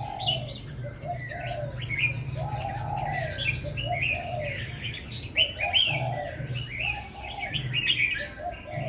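Several birds chirping and singing together: quick high chirps overlapping throughout, with a lower, repeated arched call about once a second.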